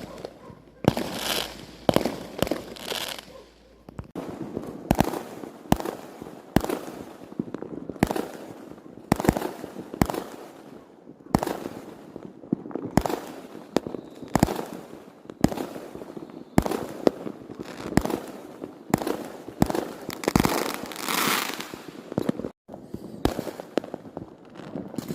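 Fireworks display: a steady run of sharp bangs, roughly one or two a second, some shells bursting into a longer crackle.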